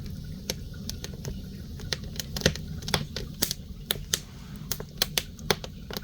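Wood fire crackling in an ondol firebox: irregular sharp pops and snaps, a few louder ones, over a low steady rumble.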